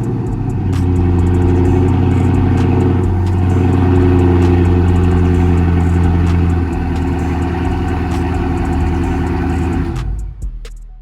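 Dodge Charger 392's 6.4-litre HEMI V8 running at a high idle just after a warm start, settling a step lower partway through, then shutting off about ten seconds in. The owner puts the stall down to an untuned under-hood mod that has the check engine light on.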